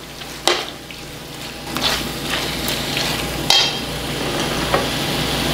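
Lamb and masala frying in oil in a large metal kadai, the sizzle growing louder from about two seconds in, with a few sharp clinks of a metal slotted spoon against the pan.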